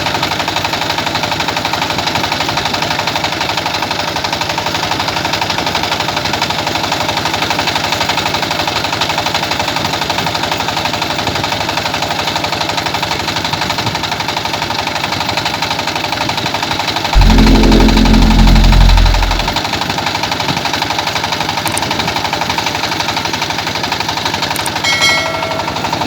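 Small village rice milling machine running steadily with a fast, even pulsing beat. About two-thirds of the way in, a much louder low hum comes in suddenly for about two seconds, then drops away.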